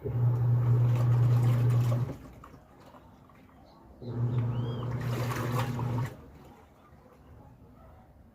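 Midea MA500W 13 kg washing machine agitating on its comforter cycle. The motor hums and the water sloshes in two bursts of about two seconds each, with a two-second pause between them.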